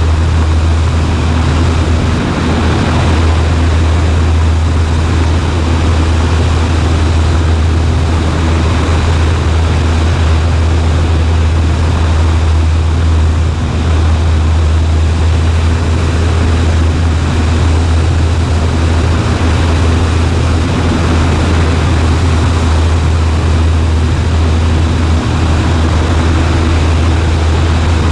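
Cessna 140A's piston engine and propeller running steadily in flight: a loud, even drone with a deep low hum and a wash of noise over it.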